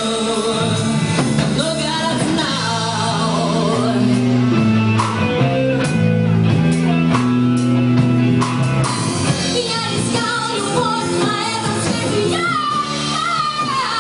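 Live rock band playing a song, with bass, guitar and drum kit under a woman's lead vocal.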